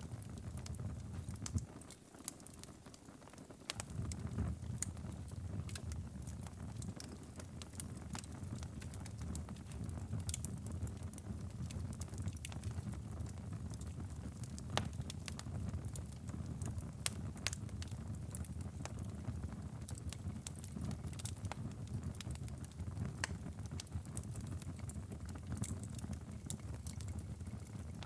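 Wood fire crackling and popping in a fireplace, with irregular sharp snaps over a steady low rumble that dips briefly about two seconds in.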